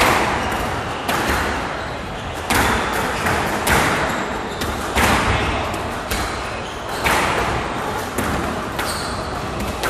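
Squash rally: the ball hit hard with rackets and striking the walls, sharp cracks about every one to two seconds, each with a short echo off the court.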